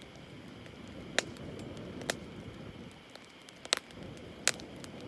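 Wood campfire burning: a soft steady rush of flame with four sharp crackling pops spread through it.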